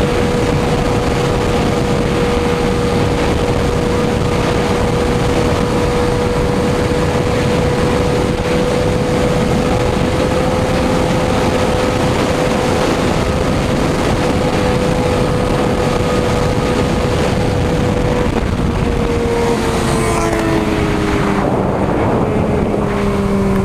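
Motorcycle engine running at a steady high speed under heavy wind rush. Near the end the engine note drops in a few steps as the bike slows.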